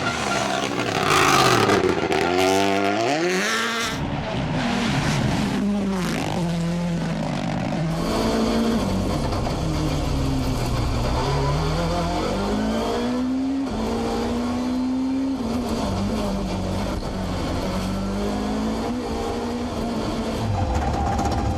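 Rally car engines revving hard, the note climbing and dropping over and over with throttle and gear changes, over a noisy rush of tyres in the first few seconds. Near the end the engine settles into a steady low running note.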